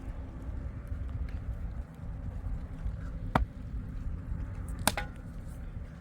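Two sharp knocks about a second and a half apart, the second doubled with a brief ringing, over a steady low rumble.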